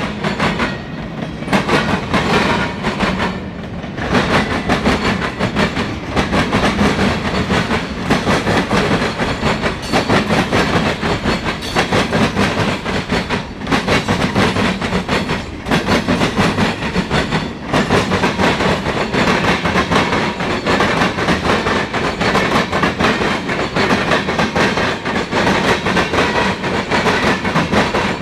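Freight cars of a mixed freight train rolling past, their wheels clicking steadily over the rail joints over a continuous rumble.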